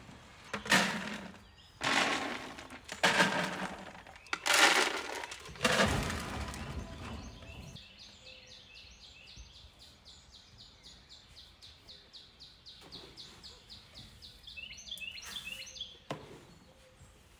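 Grain feed scooped from a bin and poured into plastic buckets, five loud pours each under a second in the first six seconds and one more near the end. Between them a bird sings a rapid repeated high chirp, about four notes a second.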